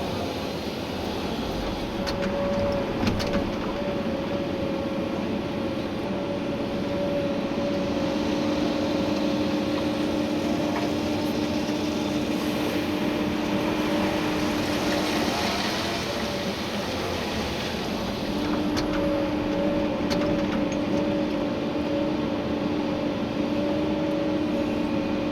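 Komatsu PC290-11 excavator's diesel engine and hydraulics running under digging load, heard from inside the cab as a steady hum. The hum drops away for a few seconds past the middle while a hiss rises, with a few faint clicks and knocks.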